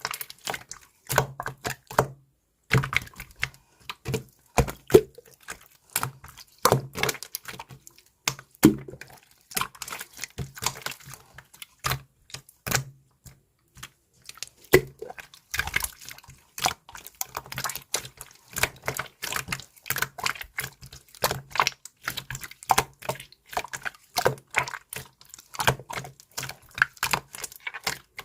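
Rapid, irregular clicks and taps that keep on with only a brief pause near the start, with a low hum under some of them.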